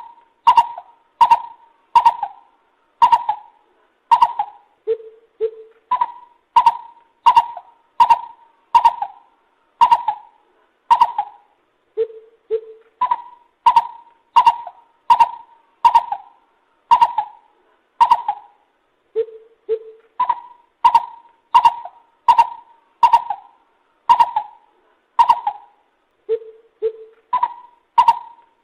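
Lesser coucal calling: a steady series of short, hollow notes, about one to two a second, broken about every seven seconds by a pair of lower notes.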